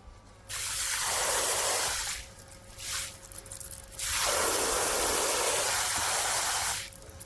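Water spraying from the handheld head of a battery-powered portable camping shower, in three bursts: about a second and a half, a brief spurt, then about three seconds. Between the bursts there is a faint steady hum, which could be the shower's pump.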